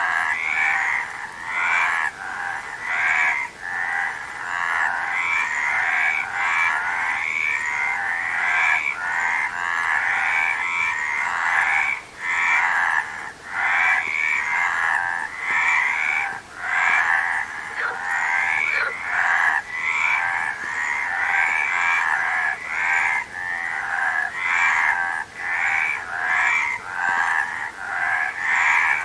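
A chorus of many frogs calling at once. Their rapid pulsing calls overlap into a continuous din with only brief dips.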